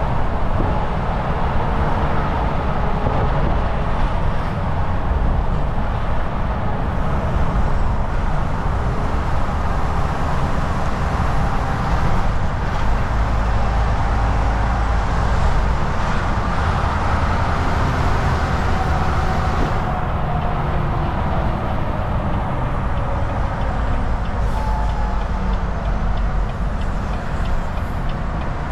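Semi truck running at highway speed: a steady low engine drone mixed with tyre and road noise.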